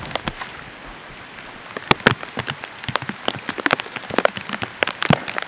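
Heavy rain, with raindrops landing on the camera's waterproof cover as sharp, irregular taps that come thicker and louder from about two seconds in.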